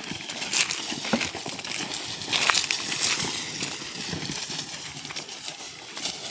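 Oxen-drawn wooden plough working through soil: uneven scraping and crunching, with a handful of scattered knocks and thuds.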